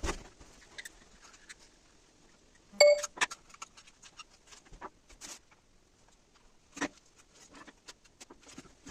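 Scattered clicks and knocks of hard objects being handled. One loud clink about three seconds in has a short metallic ring, and two smaller knocks follow later.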